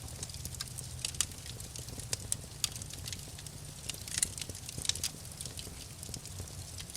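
Wood fire crackling in a fireplace: irregular sharp pops and snaps, a few louder ones, over a low steady rumble of the burning fire.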